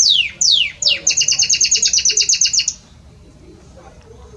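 Male Belgian canary singing: three quick falling whistled sweeps, then a fast high trill that stops a little under three seconds in.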